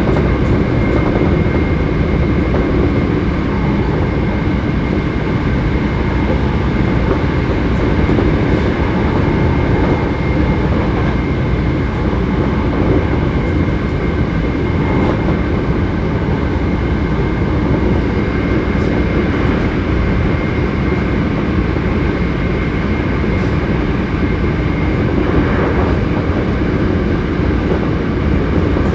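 Running noise heard inside a Hankyu 7300-series electric train car under way at speed: a steady rumble with a thin, steady high whine through most of it. The car is one known for an unusual running noise.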